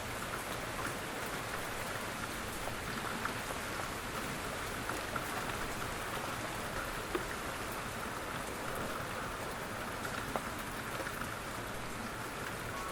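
Steady, gentle rainfall: an even hiss of rain with scattered drops ticking on a surface, a few of them sharper.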